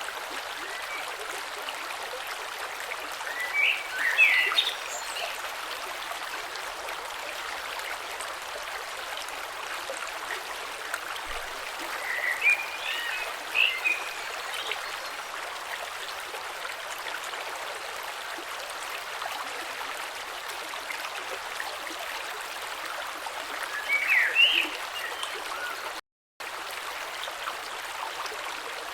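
A shallow creek flowing steadily, an even rushing hiss of water over stones. Three times, near 4 s, 13 s and 24 s, short, high, warbling sounds rise above the water. Shortly after the last of these, the sound cuts out completely for a moment.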